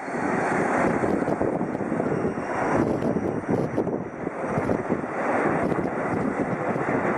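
Shinkansen bullet train moving along the platform track: a steady rushing noise of wheels and air with many fine clicks.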